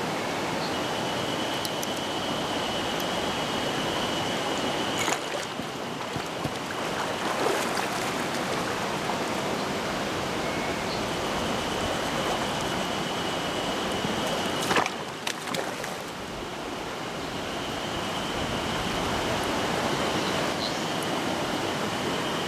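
Mountain stream water rushing steadily, with a thin high steady tone that comes and goes in three stretches, and a couple of sharp knocks, one about 5 seconds in and a louder one about 15 seconds in.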